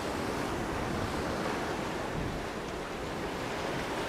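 Sea surf washing steadily against a rocky coral shoreline, a continuous rush of water with wind on the microphone.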